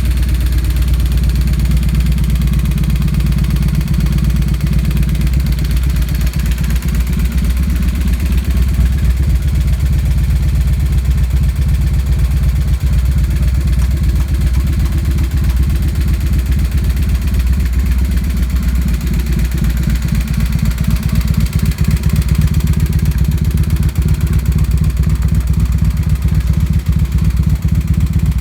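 Honda Steed 400's V-twin engine idling steadily through a 2-into-1 exhaust.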